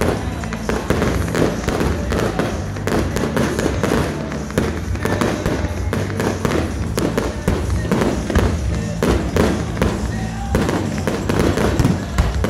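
Fireworks finale: aerial shells bursting, with many sharp bangs and pops in quick succession.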